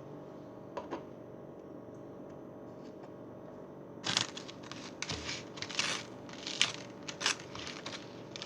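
Butter knife spreading butter on toast: a run of short, irregular scraping strokes starting about halfway through, after a quiet stretch with a single faint click.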